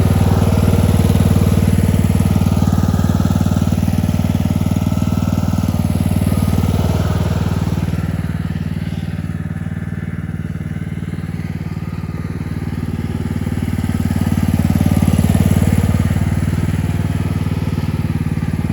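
Tractor engine running steadily, growing quieter about halfway through and then louder again.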